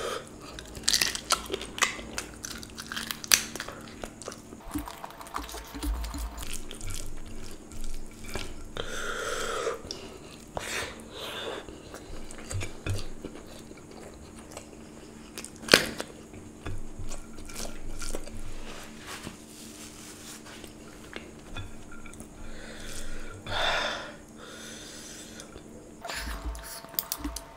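Close-miked wet chewing with lip smacks and sharp mouth clicks as a man eats rice and chicken liver curry by hand, with squelching of curry-soaked rice mixed in his fingers. One much louder smack comes just past the middle.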